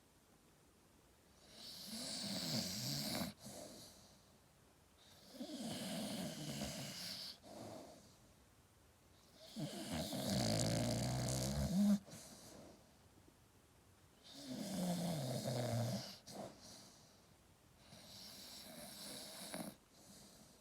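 A Staffordshire bull terrier snoring in its sleep: five long snores about four seconds apart, the middle one the loudest and deepest.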